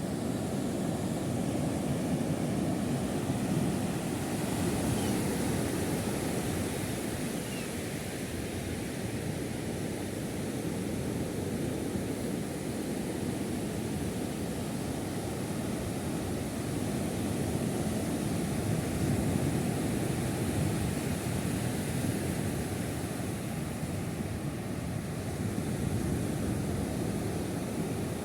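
Steady low rushing noise outdoors that swells and eases slowly over several seconds, with no distinct events in it.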